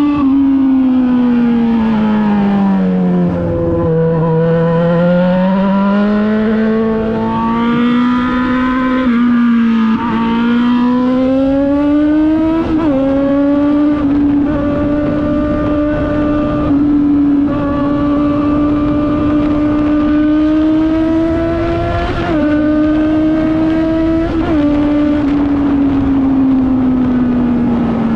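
Yamaha XJ6 600's inline-four engine breathing through a full Akrapovic exhaust system, running under way. The pitch sags and climbs with the throttle, holds steady for a stretch, gives a few quick blips past the middle, and falls away near the end.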